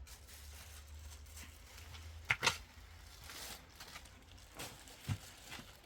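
Scattered rustling and a few sharp clicks, the loudest pair about two and a half seconds in, over a low rumble that stops at about the same point.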